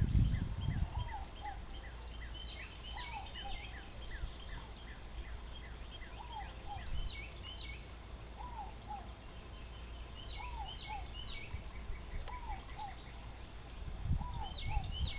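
Birds calling: a short call in pairs of notes repeats about every one and a half seconds, with many quicker, higher chirps from other birds over it. Low rumbles on the microphone at the start and near the end.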